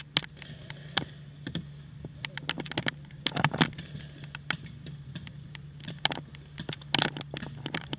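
Paintball markers firing all around: many sharp pops in irregular, rapid strings, some close and loud, most fainter, over a steady low hum.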